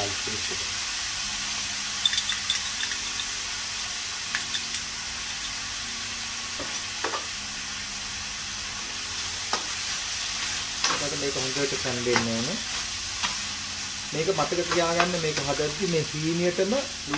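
Chopped onions and ginger-garlic paste sizzling steadily in oil in a stainless steel frying pan. There are a few light knocks, and a wooden spoon scrapes and stirs against the pan in bursts later on.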